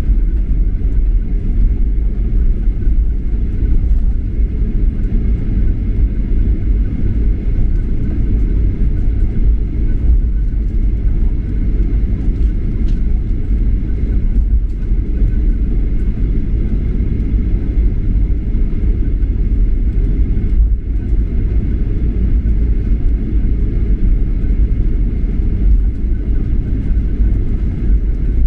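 Steady low rumble of cabin noise inside a Japan Airlines Boeing 737-800 in flight, its CFM56 jet engines and airflow giving an unbroken drone with a faint steady high whine over it.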